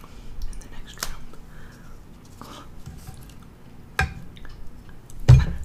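Chewing and breaking apart Pillsbury Cinnamon Toast Crunch cookies close to the microphone. Sharp clicks come about a second in and again at four seconds, and a louder, deeper thump comes near the end.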